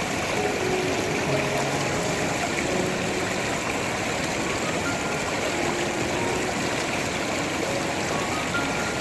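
Steady rushing of a stream, running evenly throughout, with faint music underneath.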